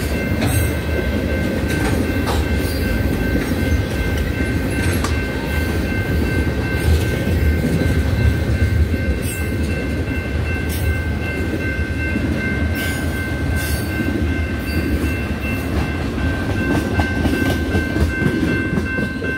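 Cars of a manifest freight train rolling past close by: a steady heavy rumble of wheels on rail, broken by irregular clanks and knocks, with a few thin steady high-pitched tones running through it.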